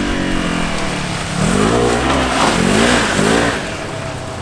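Off-road vehicle engine revving hard, its pitch rising and falling several times in quick succession about halfway through, over a steady low rumble.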